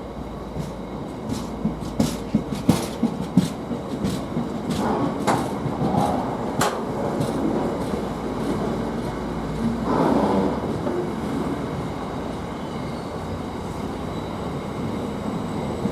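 Container freight train pulling out slowly, its wagon wheels clicking and knocking over the rail joints irregularly over a steady low rumble, the knocks thickest in the first half.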